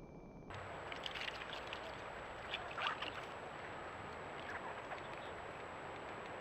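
Trail-camera outdoor recording: a steady hiss with a thin, high electronic whine from the camera, and scattered light rustles and clicks, the strongest about three seconds in.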